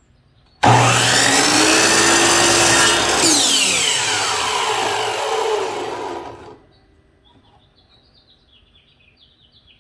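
Power miter saw starting up and cutting through a cedar board, then winding down with a falling whine over about three seconds instead of stopping at once: the brake is not grabbing. Birds chirp faintly afterwards.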